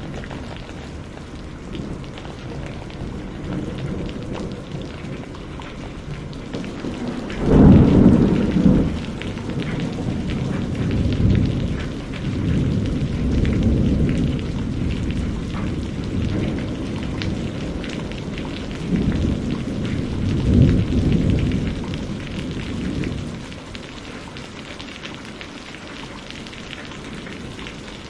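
Steady rain with a sudden crack of thunder about seven seconds in, followed by thunder rumbling on in swells, loudest again around twenty seconds, and dying away a few seconds later, leaving the rain.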